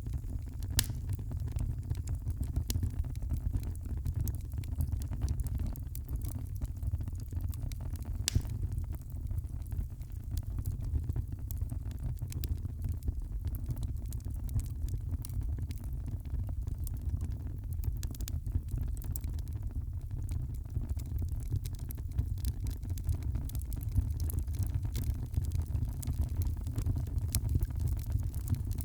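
Wood fire crackling in a fireplace: a steady low rumble under frequent small pops and crackles, with a few louder snaps.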